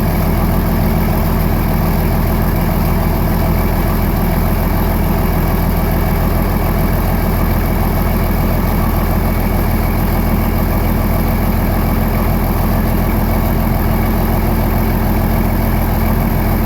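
John Deere 4430's six-cylinder turbocharged diesel idling steadily about a minute after a cold start at 19 °F, without block heater or starting fluid, while it warms up.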